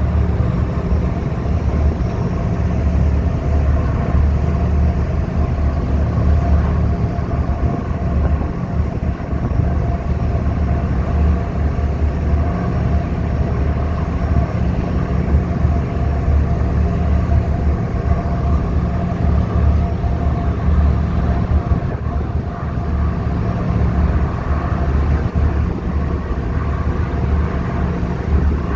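Ferry's diesel engines running steadily under way: a loud, deep drone with a few steady tones over it.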